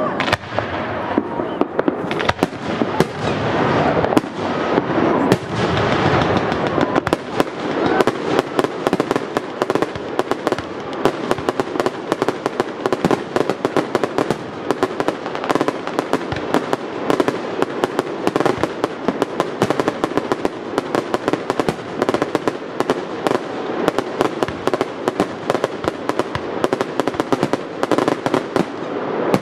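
Aerial fireworks shells launching and bursting in a continuous barrage. A few heavy bangs come in the first several seconds, then a dense stream of rapid bangs and crackles.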